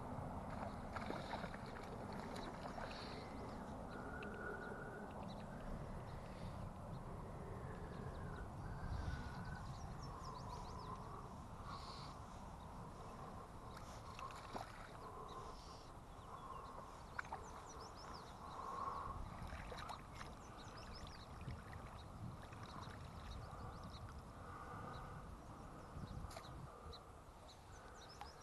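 Faint steady rush of moving river water, with a few short faint calls and ticks scattered through.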